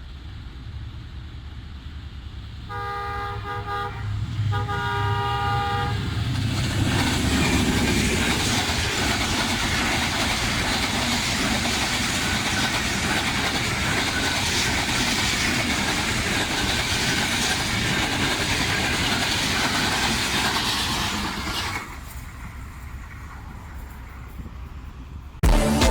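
Pak Business Express, led by a ZCU diesel locomotive, passing at speed. The locomotive sounds two long horn blasts a few seconds in, then the train runs past with a loud rush of wheels and carriages for about fifteen seconds before it drops away. Music cuts in right at the end.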